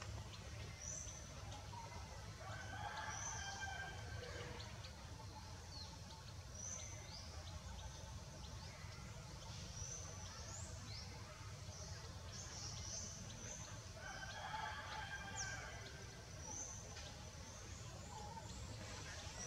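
Birds chirping in short, high notes again and again, with a longer, lower call twice, about three seconds in and around fifteen seconds, over a steady low hum.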